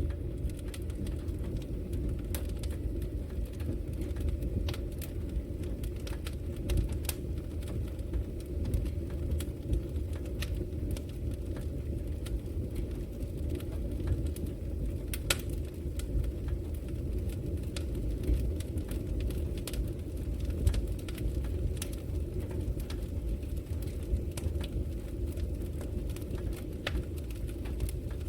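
Wood fire crackling in a fireplace: a steady low rush of burning with scattered sharp pops and snaps of the burning logs.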